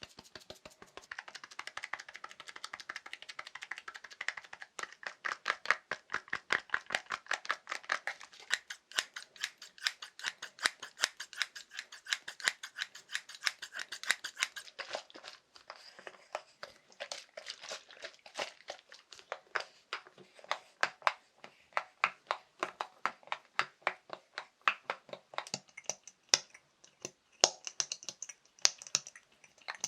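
Rapid ASMR tapping on assorted small objects, a quick continuous patter of sharp taps. The tone of the taps changes about halfway through and again, brighter, near the end, as the tapping moves to different objects.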